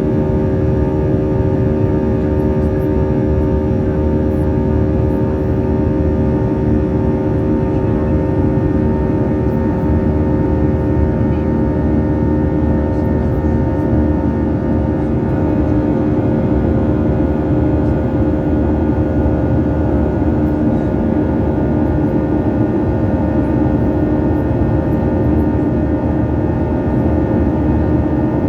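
CFM56-7B turbofan engines of a Boeing 737-800 running steadily, heard inside the cabin as a loud, even rush with several steady tones over it.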